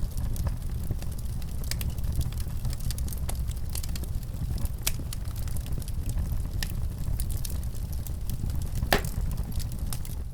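Wood fire crackling in a fireplace: a steady low rumble with irregular sharp pops and snaps, one louder pop about nine seconds in.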